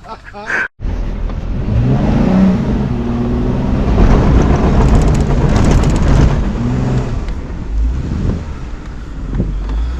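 An off-road vehicle's engine running and revving on a trail, its pitch rising and falling.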